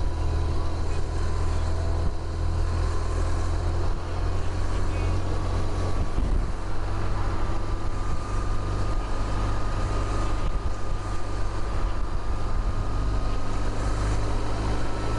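Motorcycle riding at road speed, engine running steadily under a heavy rush of wind and road noise, with a faint tone that rises slowly in pitch through the second half.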